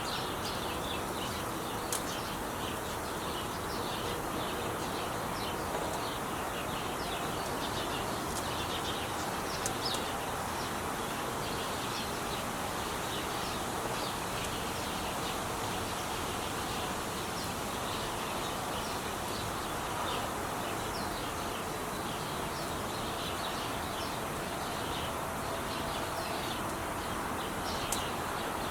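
Steady hiss and rumble of traffic on the 5 freeway, with small birds chirping often over it.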